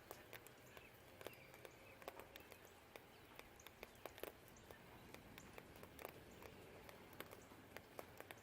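Faint rain dripping: irregular taps of drops landing on nearby surfaces, over a low, steady hum of distant traffic, with a few faint bird chirps.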